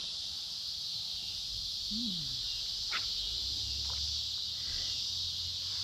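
Steady high-pitched chorus of insects such as crickets, an even drone with no breaks, over a low rumble, with a couple of faint clicks in the middle.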